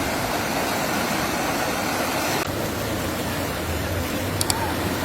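Steady rush of fast-flowing floodwater, with a low engine hum joining about two and a half seconds in.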